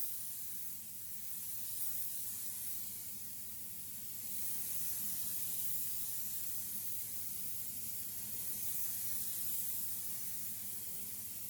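Spray gun hissing steadily as compressed air atomises clear lacquer, swelling and easing slightly in level, over a faint low hum.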